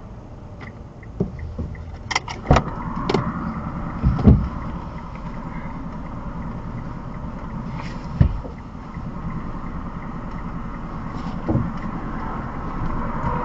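A car driving, heard through a dash camera: steady engine and road noise with a series of sharp thumps, the loudest about four seconds in and others near eight and eleven seconds in.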